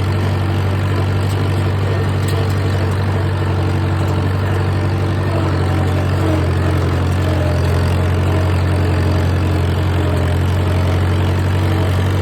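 A vehicle engine running steadily with a deep, even hum that holds the same pitch throughout, without revving.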